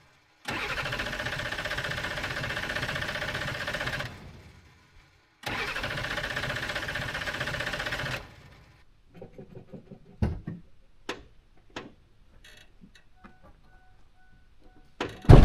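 Ford 7.3 diesel cranked on the starter twice, for about three and a half seconds and then nearly three, without catching: the engine has lost prime, its high-pressure oil reservoir drained, so it is not building oil pressure. A few light clicks follow, then a loud thump near the end.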